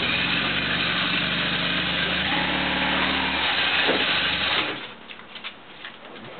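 Large adventure motorcycle's engine running at low revs as the bike is ridden up onto a tilting trailer, then switched off about three-quarters of the way through. A few light clicks and knocks follow.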